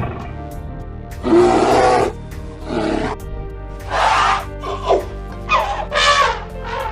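A series of about six short, rough animal calls, each under a second, over steady background music.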